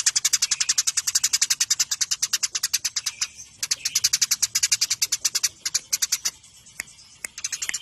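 Eurasian tree sparrows chattering in a fight: a fast, unbroken train of sharp chirps, about ten a second. It thins to scattered single chirps around six seconds in, then picks up again near the end.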